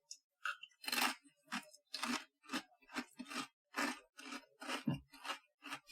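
Crunchy chewing of a thin-baked senbei rice cracker close to the microphone, a steady run of sharp crunches about two to three a second.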